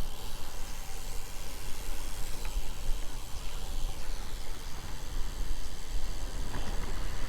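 Wind rumbling on the microphone over steady road and traffic noise while riding a bicycle.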